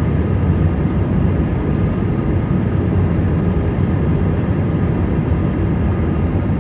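Steady low rumble of an Airbus A320 airliner, unchanging throughout.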